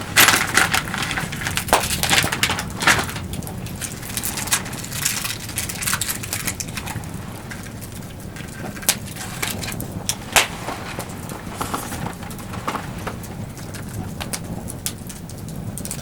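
Wood fire crackling, with frequent sharp pops and snaps over a low steady rush; the crackling is busiest in the first three seconds.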